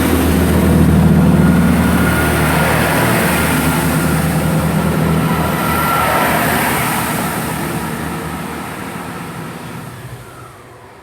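Class 165 diesel multiple unit pulling away from the platform, its underfloor diesel engines running under power. Loudest about a second in, then fading steadily as it moves off.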